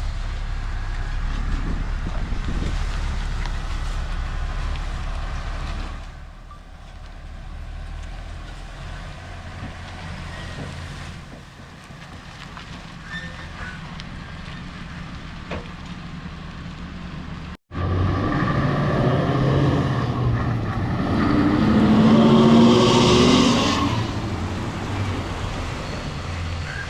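Heavy diesel vehicle engine running under load, climbing. Its level drops suddenly about a quarter of the way in and cuts out briefly two-thirds through, then the engine sound comes back louder and rises in pitch, loudest near the end.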